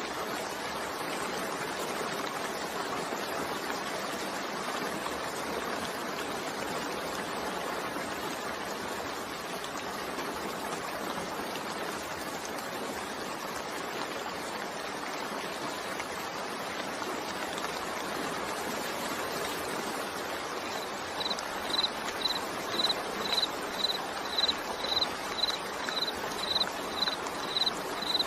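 Steady rain falling, an even hiss. About three-quarters of the way through, a short high peep starts repeating about twice a second, louder than the rain.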